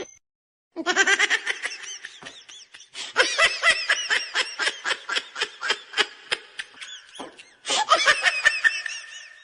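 A person laughing hard, starting about a second in: a long run of quick, rhythmic bursts of laughter with a short break near the end.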